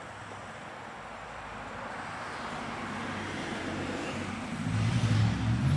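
A motor vehicle's engine and road noise growing louder as it approaches, with a steady low engine hum setting in near the end.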